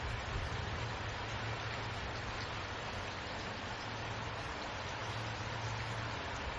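Steady rain, an even hiss of falling rain with a low rumble underneath.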